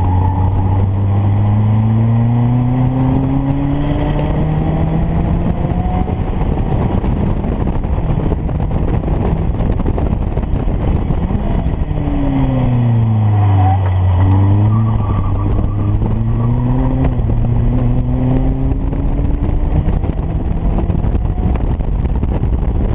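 Caterham Academy race car's four-cylinder engine heard on board under hard acceleration, its pitch climbing steadily for several seconds. About twelve seconds in the revs fall sharply as it slows, then climb again as it accelerates away, all over a steady rush of wind and road noise.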